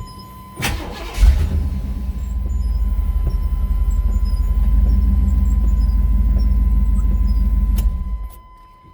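The truck's 5.7 L V8 is started and runs steadily for about seven seconds, then shuts off shortly before the end. A steady high-pitched electronic warning tone sounds throughout.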